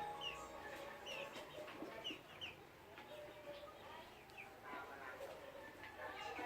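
Chickens clucking, with short high chirps repeating throughout.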